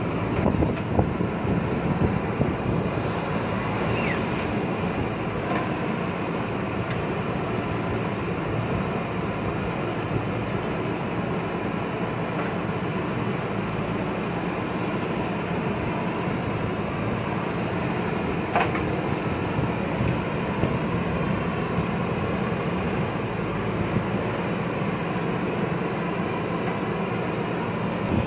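Diesel engine of a JCB backhoe loader running steadily under load while digging, with a few light knocks in the first seconds.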